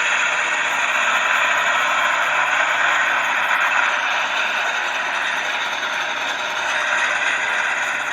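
A vehicle running, heard as a steady rushing noise with no clear engine note.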